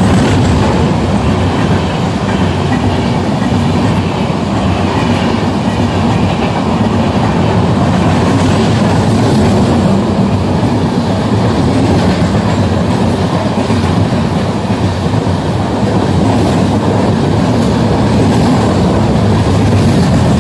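Indian Railways express train's LHB passenger coaches running through the station at speed: a steady loud rush of wheels on rail with clatter over the rail joints.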